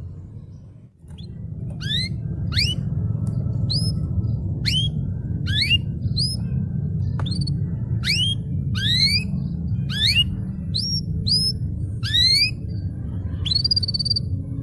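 Domestic canary singing a string of separate rising whistled notes, about two a second, over a steady low hum.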